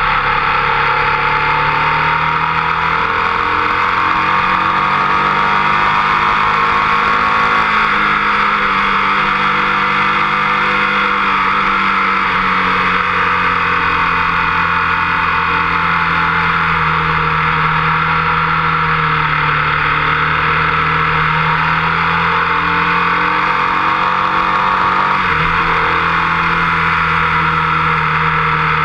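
Motorcycle engine running hard at track speed, its note drifting slowly up and down through the corners and straight, with a sudden change in the note about 25 seconds in, over steady wind rush on the bike-mounted camera.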